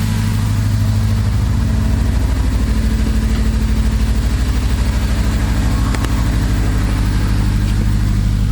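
Acura RSX Type S K-series four-cylinder engine running at idle, a steady low note with a regular pulsing in its level. It is running lean and rough on newly fitted 750cc injectors that are not getting it enough fuel.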